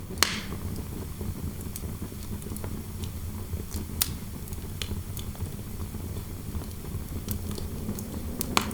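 Fireplace fire crackling, with three sharp pops (just after the start, about four seconds in, and near the end) and fainter ticks between, over a steady low rumble.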